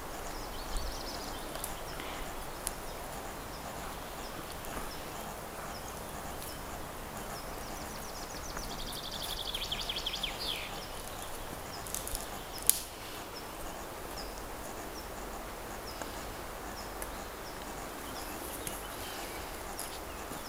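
Woodland ambience with birdsong: faint high chirps repeat throughout, and a songbird gives one quick falling trill about nine seconds in. A single sharp tap stands out a few seconds later.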